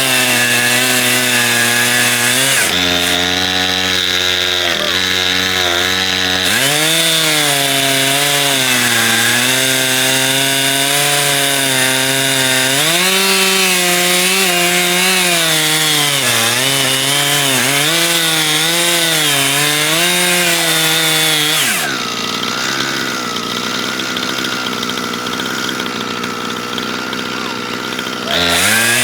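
Chainsaw running at high revs while ripping a log lengthwise in an Alaskan chainsaw mill. The engine note rises and dips as the cut loads it. About two-thirds of the way through, the steady engine note gives way to a lower, quieter, noisier sound for several seconds, then the saw comes back at full speed near the end.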